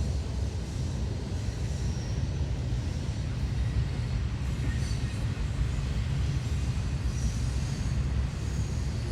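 Norfolk Southern double-stacked intermodal freight train rolling past: a steady low rumble of the cars with a hiss of wheel and wind noise over it.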